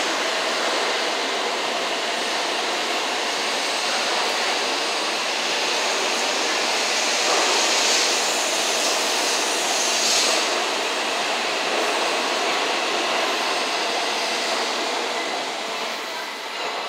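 N700 series Shinkansen train pulling out of the station past the platform: a steady rushing noise of wheels and air as the cars slide by, fading as the tail end clears near the end.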